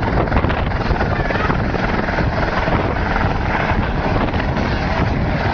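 Helicopter running close by, with loud, steady rotor and engine noise and a fast, even chop from the blades.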